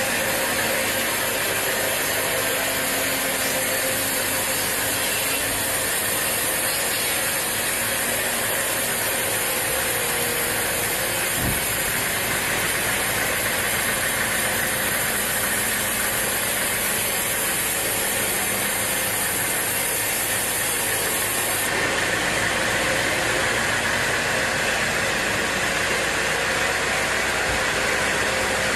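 Sawmill saw running steadily as it saws through mahogany wood, making a loud, continuous mechanical noise without pauses.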